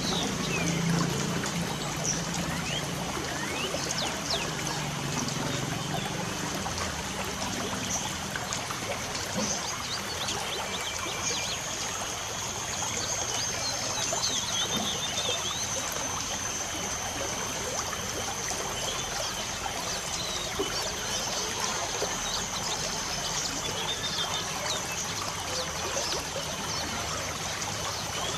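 Light rain falling with a steady hiss, with birds chirping in many short calls throughout and a thin steady high-pitched tone that grows stronger about eleven seconds in.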